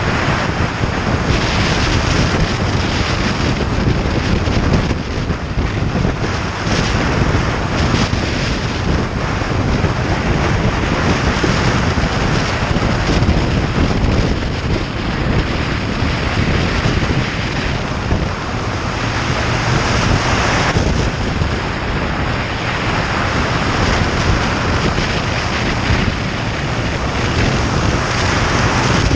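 Wind rushing over the microphone on a moving motorcycle, with the bike's engine and road noise running underneath. The noise is loud and steady.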